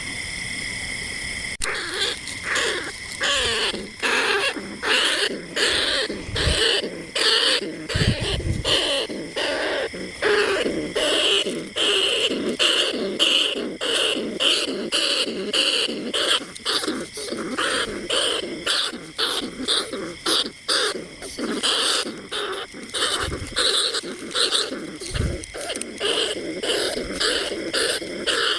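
Rats squeaking and chattering in rapid, repeated high calls, several a second, as a lure call for bandicoot rats and field rats. A steady high tone holds for about the first two seconds before the squeaking starts.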